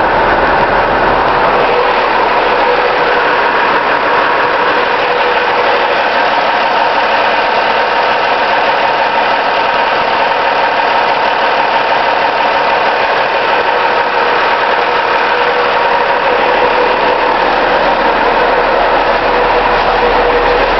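Garbage truck engine idling steadily, heard up close, with a steady whine over the running.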